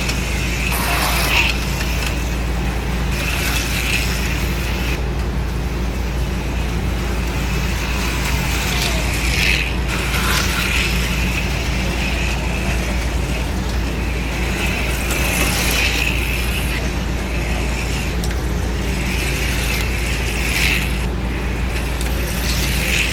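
HO-scale AFX slot cars racing around the track, their small electric motors and gears buzzing, swelling briefly each time a car passes close, several times over. A steady low hum runs underneath.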